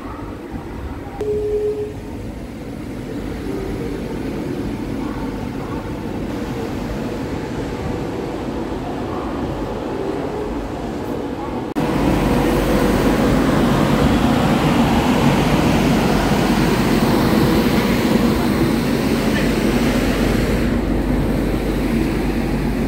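Railway station sounds: people talking in the background over the noise of a train at the platform. About 12 s in the sound jumps suddenly to a louder, steadier noise with a low hum.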